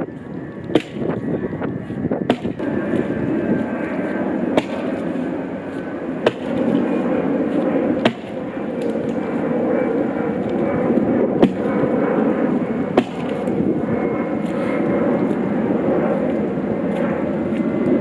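Axe blows chopping into a dead tree trunk, a sharp strike about every one and a half to two seconds, over a steady rushing drone.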